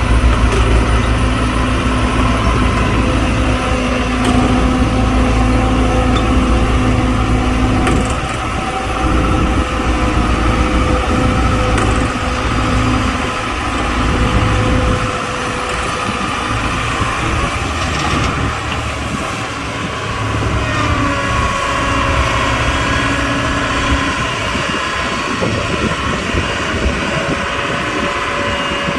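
Diesel engine of heavy earthmoving machinery running steadily with a deep rumble and a steady whine, the whine's pitch shifting about twenty seconds in, with occasional metallic clanks.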